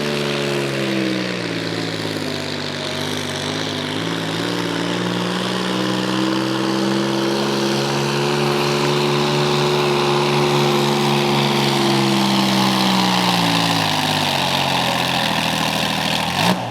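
A naturally aspirated pulling tractor's engine running hard under load on a pull. Its pitch sags over the first couple of seconds, climbs back and holds, then falls away near the end. A single sharp bang comes just before the end.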